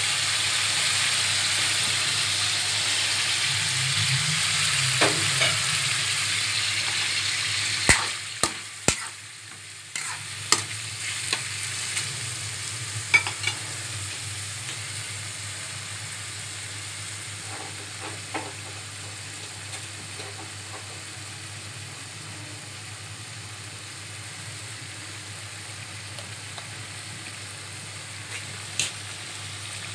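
Chicken pieces with garlic and onion sizzling in oil and their own juices in an aluminium wok, a steady frying hiss. A run of sharp knocks comes about eight to thirteen seconds in, after which the sizzle is quieter.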